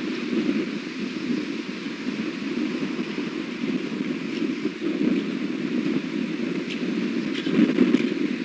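Steady wind noise buffeting the nest camera's outdoor microphone, with a few faint ticks scattered through it.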